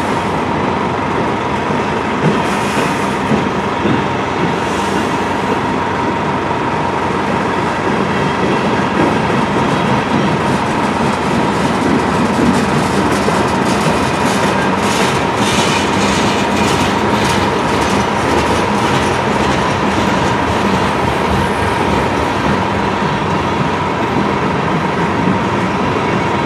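Freight cars of a long mixed train (flatcars and tank cars) rolling past on steel rails: a steady rumble of wheels with clickety-clack over the rail joints, busiest about midway, and a faint steady ringing tone underneath.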